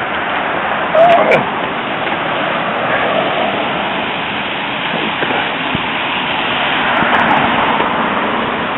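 Steady rushing noise of street traffic on a wet, slushy road, swelling slightly about seven seconds in. A brief louder sound about a second in.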